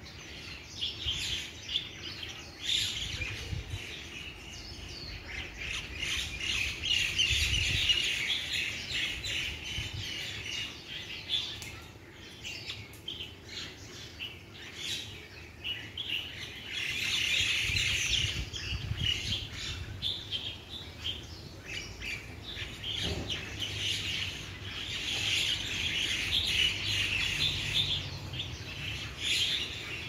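Many small birds chirping at once, a dense chatter of short overlapping calls that swells louder several times.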